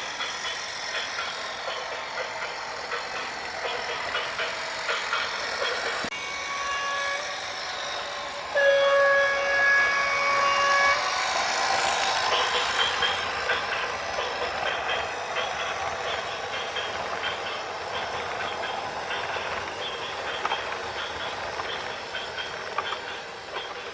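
A horn sounds two single-pitched blasts over a steady noisy background: a faint one about six seconds in lasting about a second, then a loud one about two and a half seconds long.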